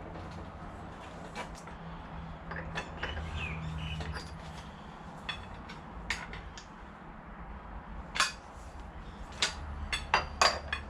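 Metal tools and parts being handled on a workbench: a scatter of sharp clinks and clanks, with a quicker run of louder ones near the end, over a low steady hum.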